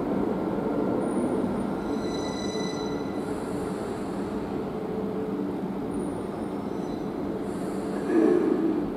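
Heathrow Express Class 332 electric train running slowly into an underground station platform, a steady rumble with thin high-pitched wheel or brake squeals about two seconds in. A brief louder swell comes near the end.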